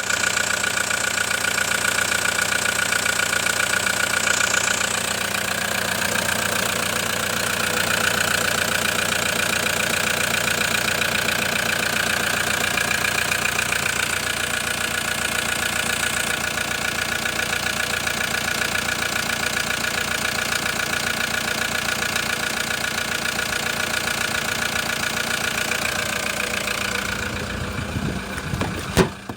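Toyota Hilux 3.0-litre engine running steadily. It falls away about two seconds before the end, followed by one sharp knock.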